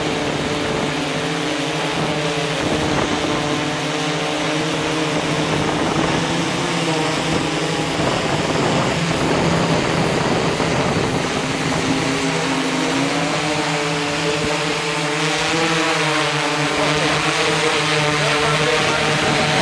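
DJI S800 hexacopter's motors and propellers humming, several tones wavering up and down in pitch as the motors keep adjusting speed to hold the craft in strong wind, over a steady rushing hiss.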